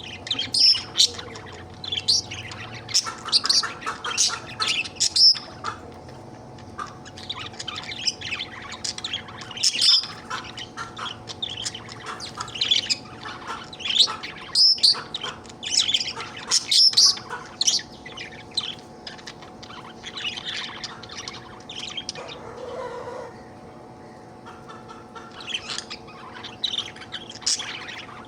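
Budgerigar chirping and chattering in a fast run of quick, high, varied chirps and warbles, with a short quieter lull about two-thirds of the way through.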